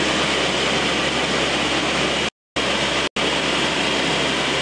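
Steady in-flight noise of a C-130 turboprop transport: engine drone and airflow as a dense, even hiss. The sound cuts out completely twice, briefly, a little over two seconds in and again around three seconds in.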